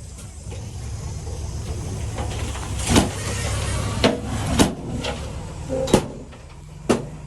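Diesel engine of heavy earthmoving equipment running steadily, with five sharp knocks spread through the middle and end.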